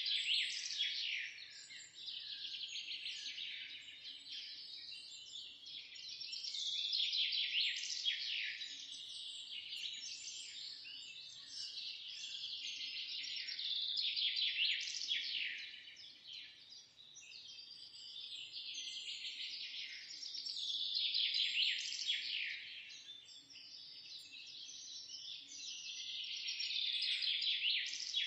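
Many small birds chirping and twittering together in a dense chorus of quick, high calls that swell and fade about every seven seconds.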